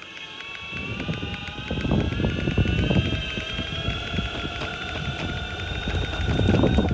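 Boosted Stealth electric skateboard riding: the belt-driven hub motors whine, rising slightly in pitch over the first few seconds and then holding, over a rough wheel rumble, with a repeated clicking running through it. The clicking is the fault the rider is reporting while riding.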